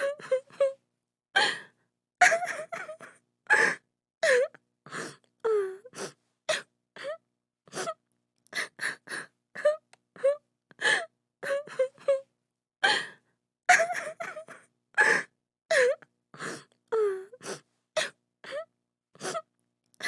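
A woman crying in short, broken sobs and gasping breaths, one after another about once or twice a second, some sobs wavering down in pitch into a wail.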